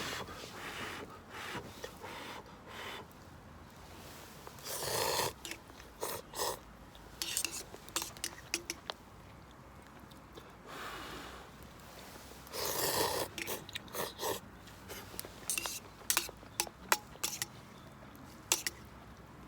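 A person eating ramen: noodles slurped in two breathy pulls about eight seconds apart, with chewing in between and light clicks and taps.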